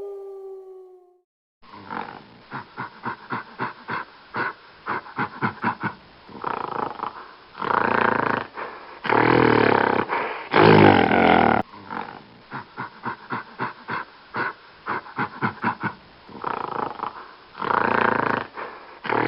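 A large wild animal roaring: runs of short rhythmic grunts, about two or three a second, broken by a few longer, louder roars.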